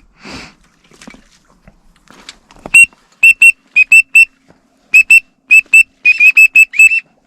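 Duck whistle call blown in short, slightly falling notes, in pairs and in a quick run of about six, starting nearly three seconds in.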